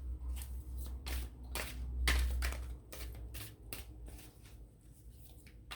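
Oracle card deck being shuffled by hand: a run of quick papery card slaps and flicks, about three a second, over a low rumble that stops a little under halfway through.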